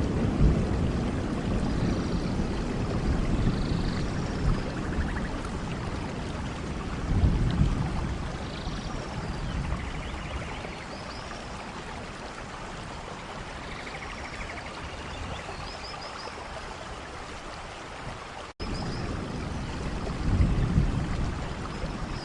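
Rainforest rain, a steady hiss of falling water, with low rumbling swells that come and go and birds chirping and trilling at intervals. The sound cuts out for a moment about eighteen seconds in, then carries on.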